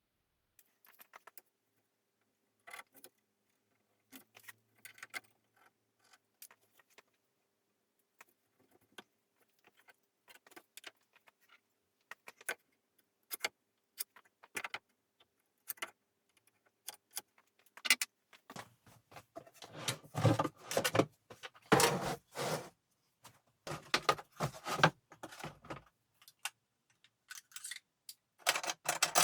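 Clinks and rattles of small metal hardware and tools being handled on a workbench: scattered light clicks at first, then a dense, louder run of clattering about two-thirds through, and another short flurry near the end.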